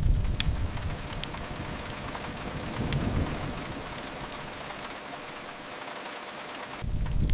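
Steady rain on a window with a fireplace's scattered sharp crackles over it. A deep low rumble is strong at first, fades, swells briefly about three seconds in, and comes back suddenly near the end.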